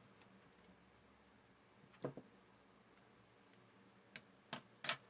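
A few light clicks and taps as small craft pieces are handled on a desk: a double tap about two seconds in, then three quick clicks near the end, with near silence between.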